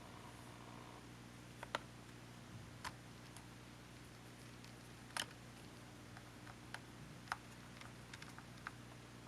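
Small, irregular clicks and taps from handling a camcorder's plastic casing and parts with tools while taking it apart, about a dozen in all, loudest near two seconds in and again past five seconds, over a steady low hum.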